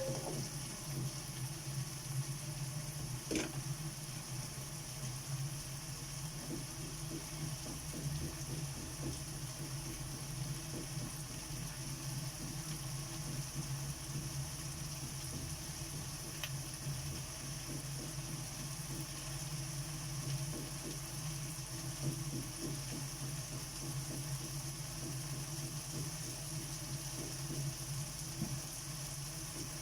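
Food simmering in a pot of beef caldereta, with a faint crackling bubble over a steady low hum. There is one sharp click about three seconds in.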